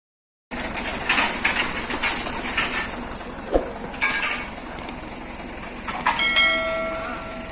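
Heavy truck on the move with its load: metallic rattling and jingling over a steady high squeal, starting abruptly after a moment of silence. A couple of sharp clanks come about six seconds in, followed by a steady pitched tone lasting under a second.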